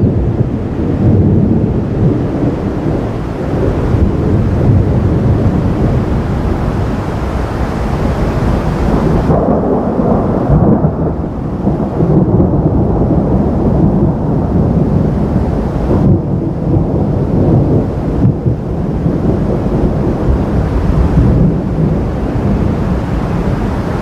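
Long rolling thunder from a thunderstorm: a deep, continuous rumble that swells and eases in waves without a single sharp crack.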